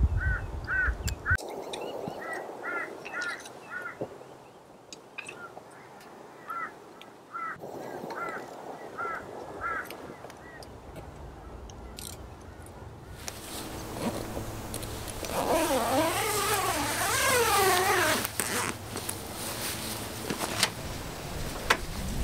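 Birds calling outdoors: short chirps repeated in small groups through the first half. From about halfway a louder rush of noise comes in, with a long wavering, up-and-down call over it.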